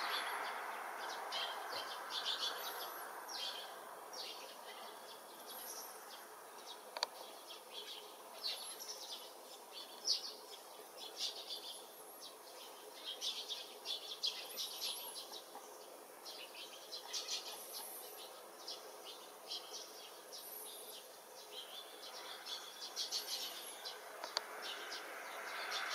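Small wild birds chirping and twittering in quick clusters, with a thin, very high call repeating every two to three seconds. A passing train's rumble fades away in the first few seconds and builds again near the end.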